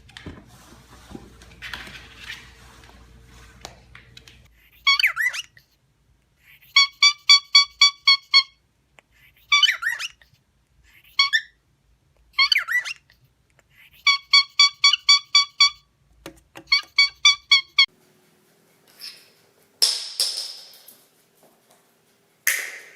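Parrot whistling: runs of quick, evenly spaced beeping notes, about six a second, alternating with short gliding whistles. A harsh screech comes near the end.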